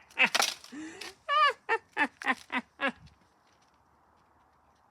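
A brief noisy rustle, then a high-pitched voice in a quick run of short cackling syllables, about eight of them, stopping about three seconds in.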